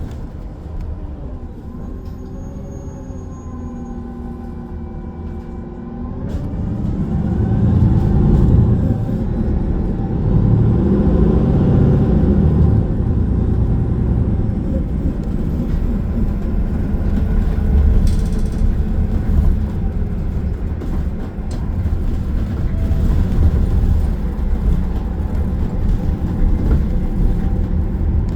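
City bus heard from inside the cabin. Its drivetrain hum bends upward in pitch and grows louder about six seconds in as the bus pulls away and accelerates. After that comes a steady low road rumble with occasional knocks.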